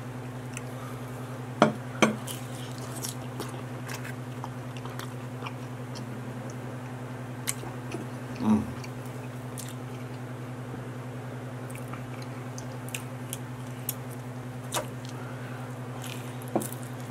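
Close-up chewing and mouth clicks of someone eating pepperoni pizza dipped in ranch, with a couple of sharp knocks about two seconds in. A steady low hum runs underneath.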